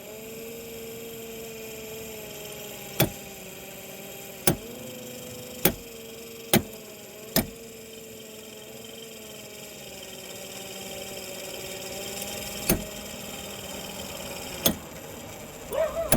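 GMC Savana heater blower motor running with a steady, slightly wavering hum, struck sharply about seven times, mostly between 3 and 7.5 seconds in. The pitch shifts briefly after one of the blows. The blower had quit working and is being beaten on to free it, and now runs only sort of.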